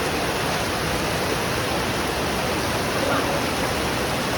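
Heavy rain pouring steadily, an even hiss of water.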